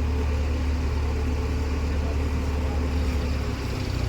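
Diesel engine of a JCB 2DX backhoe loader running steadily with a low drone, easing slightly near the end.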